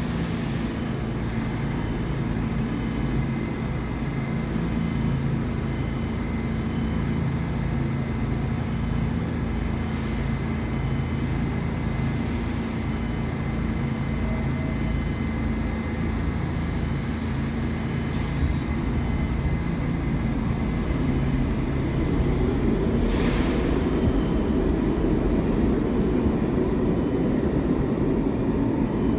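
A New York City subway train of the older SMEE type running on the rails, with a steady low rumble of wheels and motors. A faint high steady tone sounds through much of it, a few clicks sound now and then, and the run grows louder about three-quarters of the way in.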